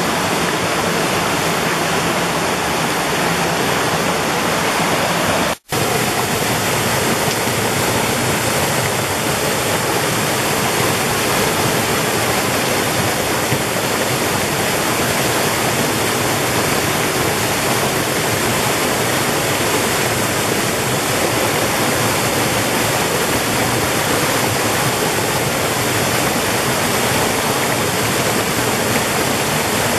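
Mountain valley stream rushing steadily, a continuous loud wash of running water. It cuts out for an instant about five and a half seconds in, then carries on unchanged.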